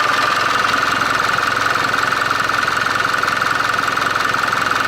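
Toyota Dyna's N04C four-litre intercooled turbo diesel engine idling steadily.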